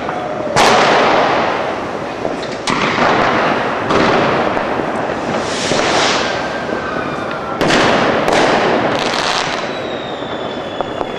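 Fireworks going off all around: a loud bang every second or two over continuous crackling, with a high whistling tone near the end.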